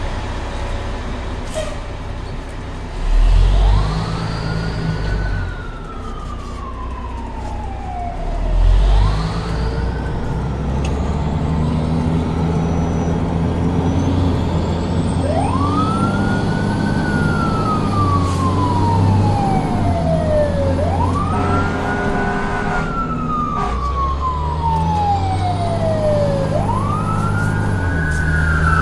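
Fire engine siren winding up quickly and falling slowly, about five times, over a steady low engine rumble, with two brief loud low bursts about three and nine seconds in.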